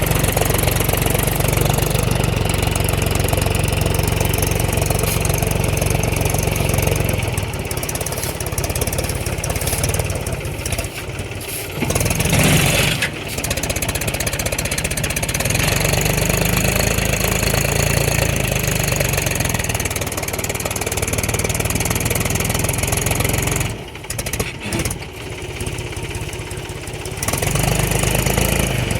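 Mahindra 275 DI tractor's three-cylinder diesel engine running hard, its speed rising and falling as it strains to pull a fully loaded sand trolley that is stuck. A brief louder burst comes about twelve seconds in, and the sound eases off for a few seconds near the end.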